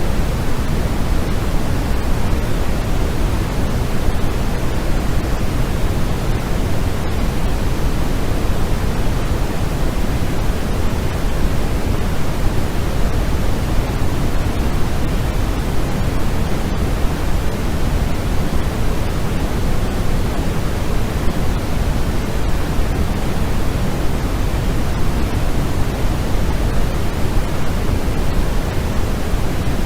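Steady, unchanging white noise for sleep, heavier in the low end than in the highs, like pink noise.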